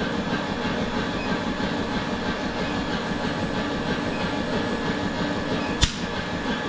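Blacksmith's power hammer running with a steady mechanical clatter, and a single sharp click about six seconds in.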